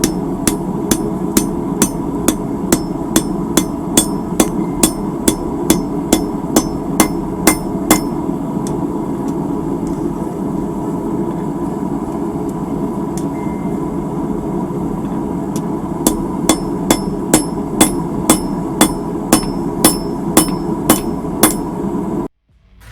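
Hammer blows on a hot steel horseshoe half over an anvil as it is straightened, about three strikes a second, stopping for several seconds in the middle and then resuming. A steady hum runs underneath, and the sound cuts off suddenly near the end.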